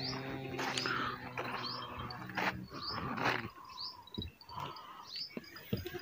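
A small bird calling over and over, a short high rising chirp about once a second. Under it in the first half, a low, steady, drawn-out call.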